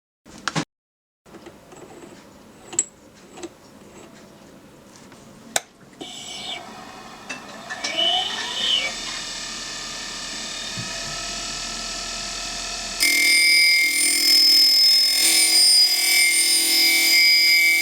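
Tradesman DC bench grinder: a few clicks, then the motor speeding up with a rising whine and running with a steady hum. About two-thirds of the way through, a much louder steady hiss with high ringing tones sets in and carries on.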